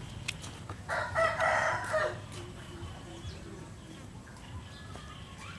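A rooster crowing once, about a second in, the call lasting just over a second and ending in a falling note. A few faint sharp clicks come just before it.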